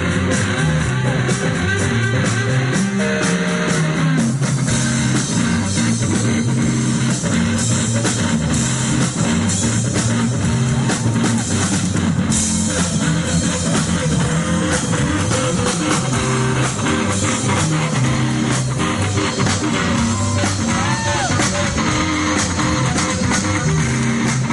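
North Mississippi hill country blues band playing an instrumental passage live: electric guitars built from car mufflers, with bass and a drum kit keeping a steady beat and a few bent guitar notes.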